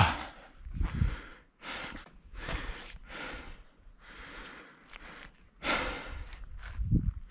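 A hiker breathing hard in repeated heavy breaths, roughly one a second, from the exertion of climbing a steep mountain trail.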